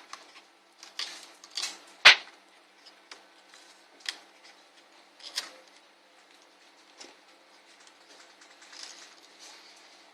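Small clicks and light scraping of ASUS N53 laptop parts being handled during disassembly, with one sharp click about two seconds in that is louder than the rest.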